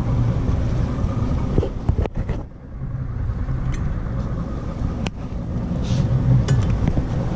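Boat motor running with a steady low rumble that dips briefly about two and a half seconds in, with a few sharp clicks over it.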